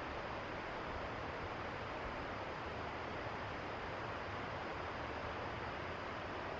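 Steady rushing of a river, an even unbroken noise with no distinct events.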